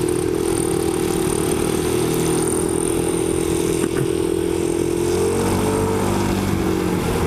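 Motorcycle engine running at a steady cruising speed, holding an even note that shifts a little in pitch after about five seconds, with wind and road noise.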